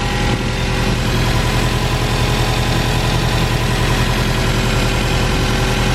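Car engine idling steadily, run with the heater on high just after a radiator replacement so that trapped air bubbles work out of the cooling system.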